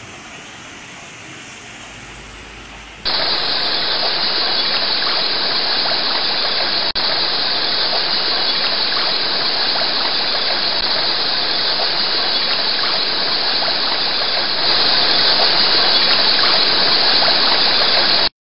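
Water rushing over a river weir: a steady loud rush that jumps sharply louder about three seconds in, dips out for an instant, swells a little near the end, then cuts off.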